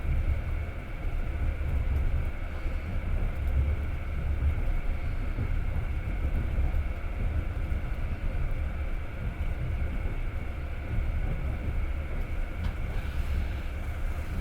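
Russian passenger train running at speed, heard from inside the carriage: a steady low rumble of wheels on track with running noise.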